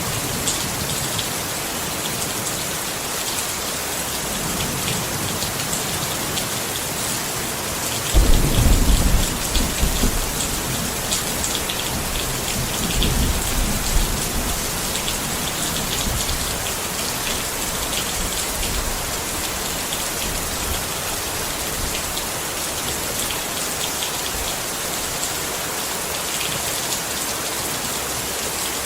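Steady rain pattering on a tent, with a low rumble of thunder that comes in suddenly about eight seconds in and dies away over several seconds.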